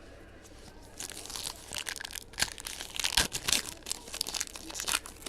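Wrapper of a pack of football trading cards being torn open and crinkled: a dense crackling starts about a second in and runs for about four seconds.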